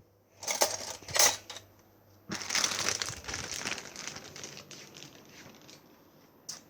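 Crinkling and rustling of something being handled, probably paper or plastic: two short bursts, then a longer crinkle starting about two seconds in that fades away.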